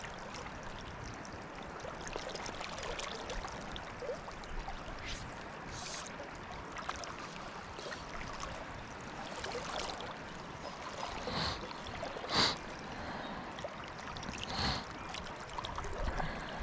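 Fast river current running steadily over rocks, with a few short splashes in the second half, the loudest about twelve seconds in.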